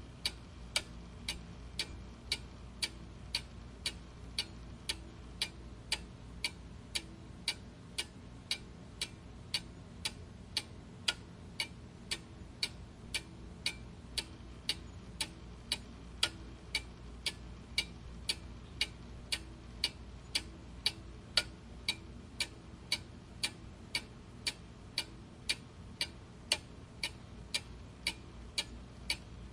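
Clock ticking steadily, about two ticks a second, in an even tick-tock rhythm over a faint low background hum.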